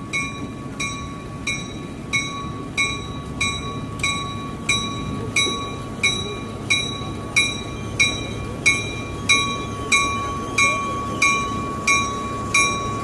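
Railroad grade-crossing bell ringing steadily, about three strikes every two seconds, over the low rumble of a train.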